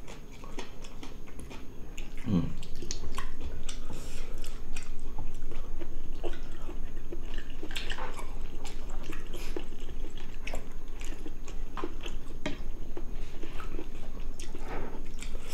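Eating sounds: two people chewing mouthfuls of braised pork ribs and potato, with frequent small clicks of chopsticks and a spoon against the dishes.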